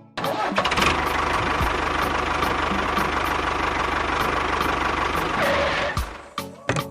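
A small engine running steadily with a fast, even knocking pulse, cutting off suddenly about six seconds in, followed by a few sharp clicks.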